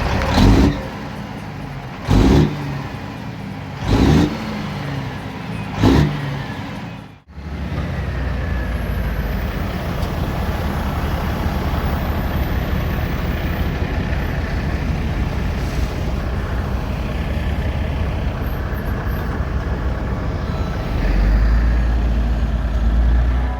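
Big Caterpillar 3406 diesel truck engine revved in four short blips about two seconds apart. It then runs steadily, with a deeper, louder stretch near the end.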